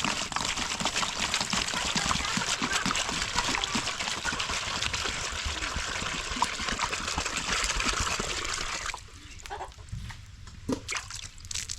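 Water pouring and splashing in a steady, even rush for about nine seconds, then stopping abruptly, followed by a few light knocks.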